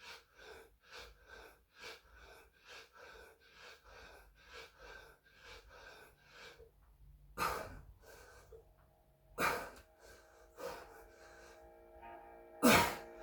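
A man breathing hard during bodyweight exercise, with three loud, heavy gasping breaths in the second half, over background music with a quick beat.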